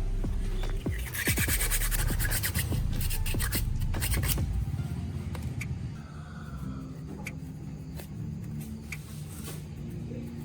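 Abrasive scraping and grinding, like sanding, for the first four and a half seconds or so, then it drops away. Background music with a steady low line and occasional clicks carries on.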